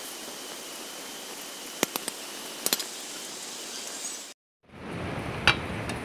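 Moringa leaves in coconut milk sizzling steadily in a wok while a metal ladle stirs, clinking sharply against the pan a few times. The sound drops out briefly about four seconds in, then returns with a lower rumble and one more clink.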